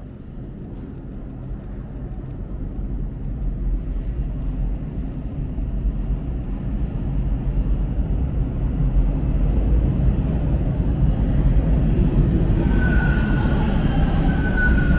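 Line 2 subway train pulling into the platform: a low rumble that grows steadily louder, with a high tone starting near the end as it slows.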